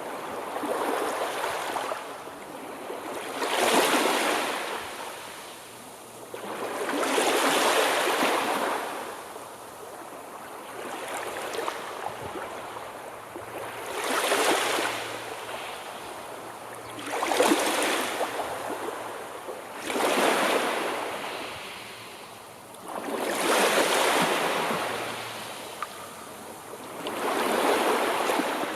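Sea waves washing in one after another, each surge of surf swelling and fading, about every three to four seconds.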